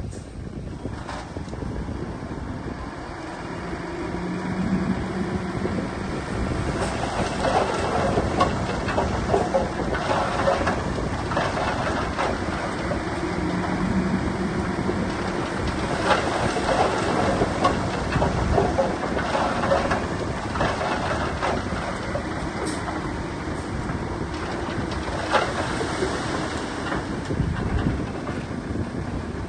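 Heavy diesel earthmoving machinery working, most likely a bulldozer: engine running under load with metallic clanking and rattling that grows busier about a quarter of the way in and eases near the end.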